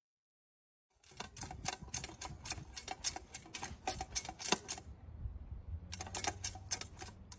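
A quick, irregular run of sharp clicks, several a second, starting about a second in, easing off around five seconds, then picking up again for another second or so.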